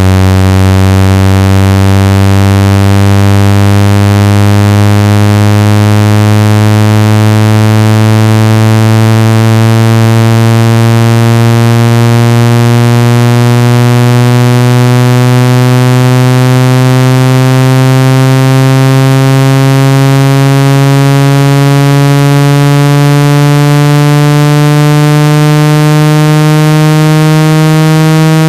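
Synthesized speaker water-ejection tone: a loud, low, buzzy tone rich in overtones, rising slowly and steadily in pitch, played through a phone or earphone speaker to vibrate trapped water out of it.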